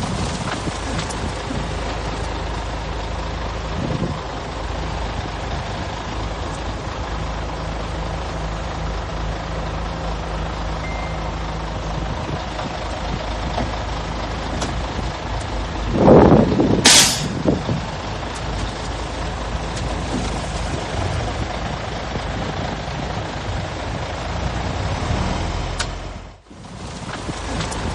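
Heavy diesel engines of earthmoving machines running steadily. About sixteen seconds in there is a loud burst, followed by a short, sharp hiss of a truck's air brake. The sound dips out briefly near the end.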